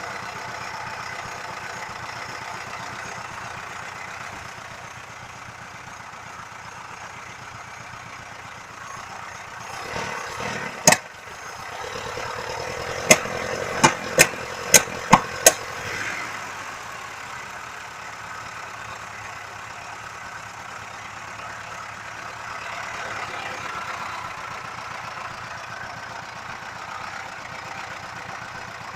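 ZAZ-968 Zaporozhets' air-cooled V4 engine idling steadily. About ten seconds in the sound swells briefly, and six sharp clicks or knocks come over the next four seconds before the steady idle carries on.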